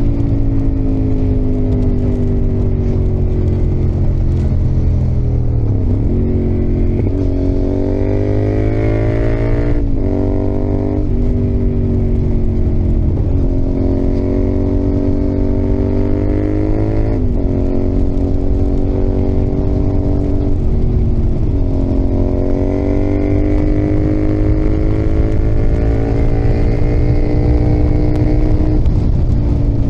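Yamaha XSR700's CP2 parallel-twin engine pulling under load. Its pitch climbs and then drops sharply several times as the rider shifts gears, with one slow fall in pitch near the start.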